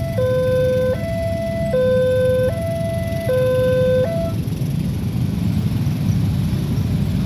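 Railway level-crossing warning alarm sounding an alternating two-tone electronic signal, switching pitch about every three-quarters of a second, that stops about four seconds in. Steady rumble of road traffic underneath.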